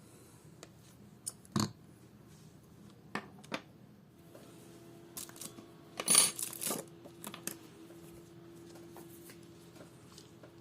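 Small tools and smartwatch parts clicking and tapping during a teardown: a few sharp separate clicks, then a louder cluster of clicks and scraping about six seconds in. A faint steady hum sets in about four seconds in.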